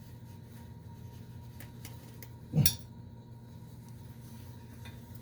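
Faint handling of a new boiler thermocouple as it is slid down into its housing: a few light clicks over a low steady hum, with one short louder sound about two and a half seconds in.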